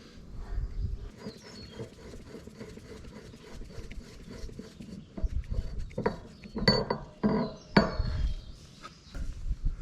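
Metal parts and tools clinking and knocking while a hydraulic cylinder is being worked on, with a few sharp clanks between about six and eight seconds in.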